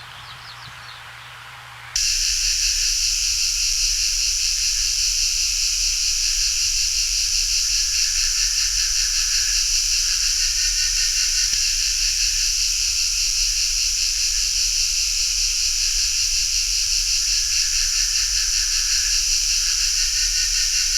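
Quiet rainforest ambience with faint high chirps, then about two seconds in a loud, steady, high-pitched insect chorus starts abruptly, with a fast pulsing texture.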